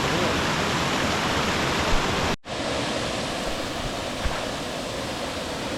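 Steady rush of water pouring down creek cascades. The sound drops out for a moment about two and a half seconds in, then carries on slightly quieter.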